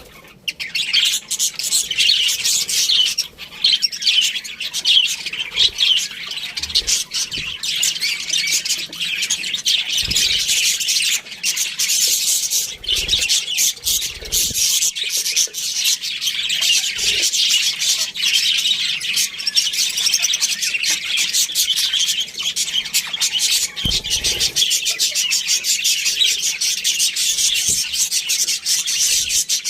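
A flock of budgerigars chattering and chirping continuously in dense, overlapping high twitters, with a few soft low thumps mixed in.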